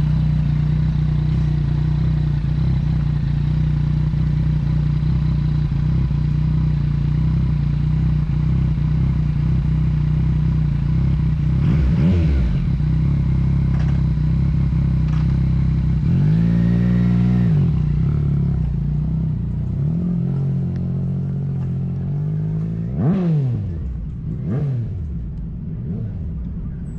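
Kawasaki Z900's inline-four engine through an AR aftermarket exhaust, running steadily and then revved with throttle blips: a quick rise and fall about twelve seconds in, a longer rev up and back down a few seconds later, and two sharp blips near the end.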